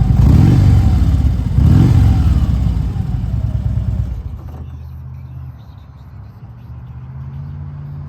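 Harley-Davidson 96 cubic inch Twin Cam V-twin running through Screaming Eagle mufflers, revved up twice in quick succession. It then drops back, fading over a second or so to a quieter steady idle about halfway through.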